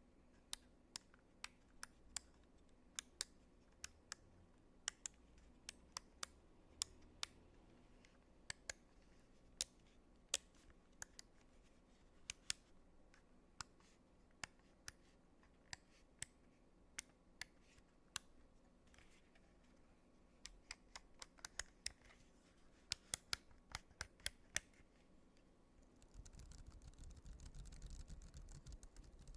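Sharp, isolated clicks of buttons being pressed, roughly one every half second to second, with a quick run of clicks a little past the middle. Near the end a soft, even scratchy noise starts up.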